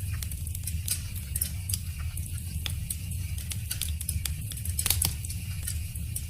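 Wood fire crackling: irregular sharp snaps and pops over a steady low rumble, with one louder pop about five seconds in.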